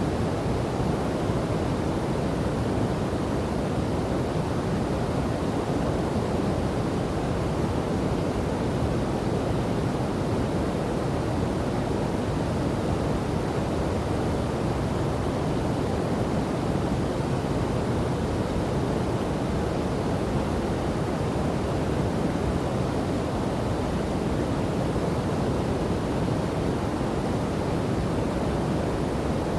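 Waterfall and river water rushing in a steady, even roar, deep and full with little hiss.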